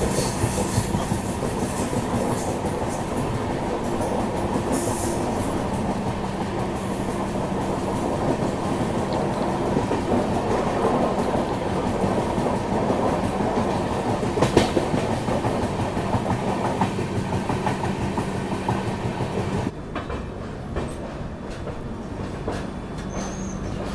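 Passenger train coaches rolling along the track: a steady rumble and rattle of wheels on rail, with clickety-clack over the rail joints and a steady low hum. About twenty seconds in the sound drops abruptly to a quieter level.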